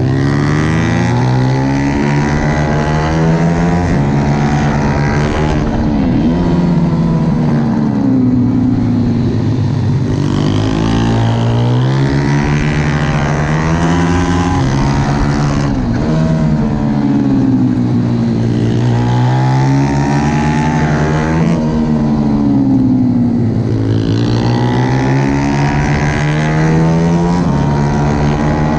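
Pit bike engine revving hard, its pitch climbing and dropping back every few seconds, with sudden drops as it shifts gear or comes off the throttle: a bike being ridden flat out around a track.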